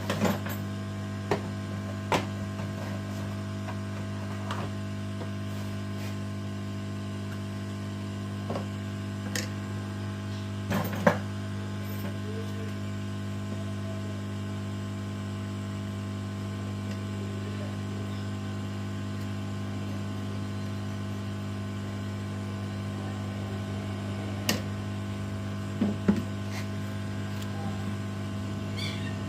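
Hot air rework station's blower running with a steady hum while heating the board to lift a burnt IC, with a few light clicks and taps of tools on the board.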